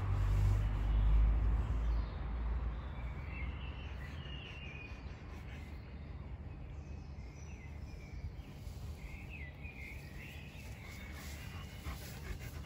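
Birds chirping in short calls, one spell a few seconds in and another about nine to eleven seconds in, over a steady low hum. A low rumble is loudest in the first two seconds.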